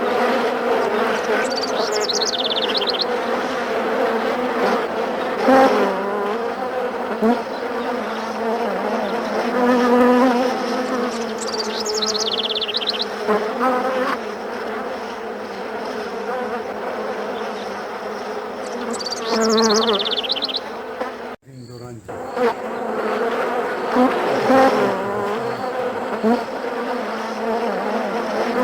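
A swarm of honeybees buzzing in a dense, steady hum around their wild comb. The hum drops out briefly about three quarters of the way through.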